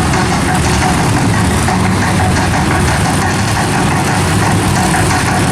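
Monster truck engines running loud and steady.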